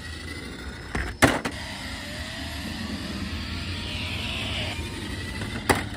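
Small electric motor whirring, with a faint rising whine in the middle; a sharp knock about a second in and another near the end.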